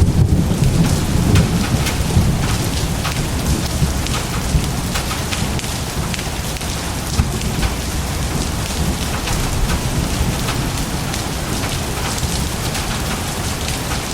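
Thunderstorm: steady rain with many individual drop hits, and a low rumble of thunder that dies away over the first few seconds.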